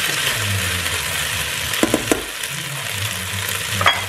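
Shrimp and rice sizzling while being stir-fried in the Ninja Foodi's pot, with tongs clicking against the pot about halfway through. A sharp clack near the end as the tongs are set down.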